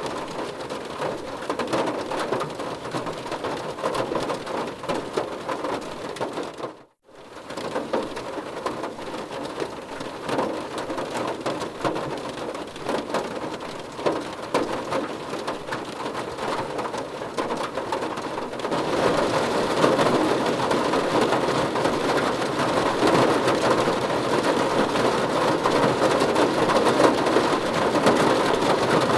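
Heavy, steady rainfall. It cuts out for a moment about seven seconds in, then fades back in, and grows louder and brighter about two-thirds of the way through.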